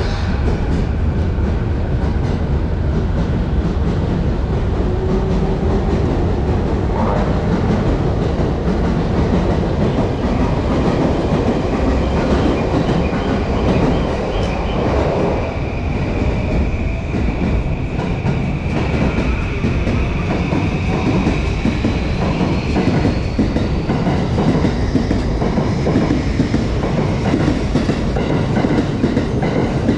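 Electric Yamanote Line commuter train on the platform track, a steady rumble and clatter of wheels and running gear. Over the last several seconds a thin, high whine from its traction motors climbs slowly in pitch as the train pulls out.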